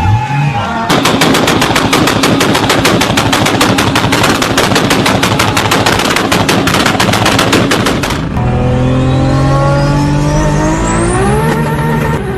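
Toyota Supra MK4's straight-six held on a two-step rev limiter, crackling out a rapid, even string of sharp bangs for about seven seconds. The bangs then stop and the engine note climbs steadily in pitch as it accelerates, with a high turbo whistle rising with it.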